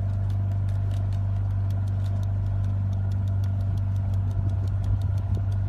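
A motor running steadily with a low, even hum, with a fast regular ticking of about five ticks a second over it.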